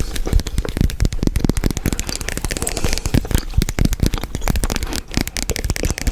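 Close-miked chewing gum being chewed, giving a dense run of rapid wet clicks and crackles.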